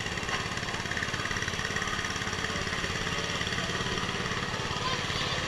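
An engine running steadily at an even pace.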